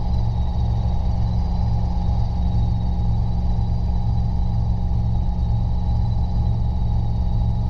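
Robinson R22 helicopter in steady flight, heard from inside the cabin: a constant engine and rotor drone with a low, even throbbing beat and a faint steady high whine over it.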